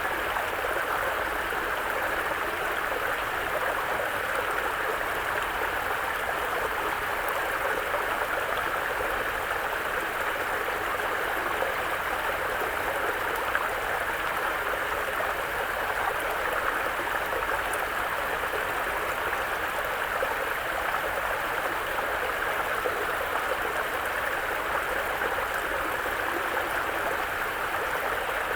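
Mountain brook flowing over rocks: a steady, even rushing and babbling of water.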